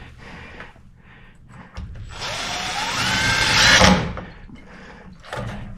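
A handheld power tool, drill-like, runs for about two seconds with a rising whine, loudest just before it stops.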